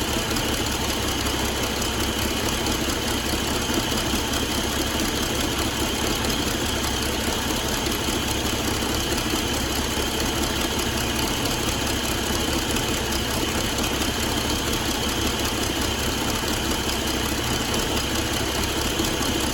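Cummins ISX15 15-litre inline-six diesel engine idling steadily at an even speed.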